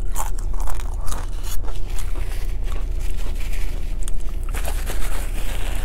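Close-miked eating: chewing with wet mouth clicks and smacks, then, near the end, a longer crackly stretch as a tortilla chip is bitten and crunched. A steady low hum of the idling car and its air conditioning runs underneath.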